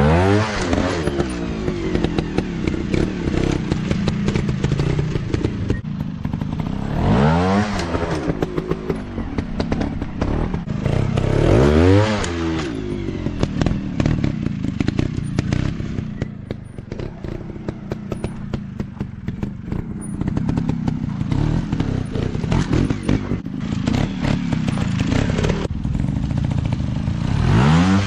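Dirt bike engines revving up and falling back in several sweeps, near the start, about 7 and 12 seconds in, and again near the end, over steady engine running. Scattered clattering knocks are mixed in. The sound eases off for a few seconds in the middle.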